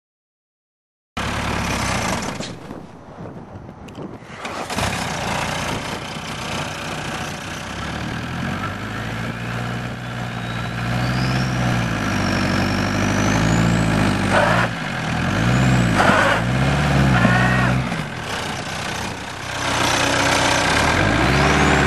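1993 Volkswagen Jetta turbo-diesel engine running and revving up and down. The sound comes in suddenly about a second in, and a high whistle glides up and down in pitch through the middle.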